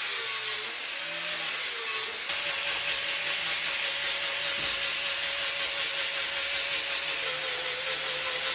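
Power carving tool cutting into wood, running continuously. It changes abruptly about two seconds in, then settles into an even pulsing of about four or five beats a second.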